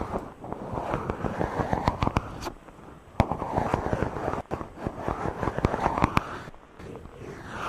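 Fingers rubbing directly on a microphone, a dense scratchy crackle with sharp clicks, in long strokes of one to two seconds separated by brief pauses.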